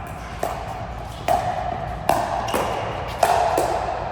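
A racket-sport rally: a string of sharp ball strikes with a brief ringing after each, about two a second, in alternating short and long gaps.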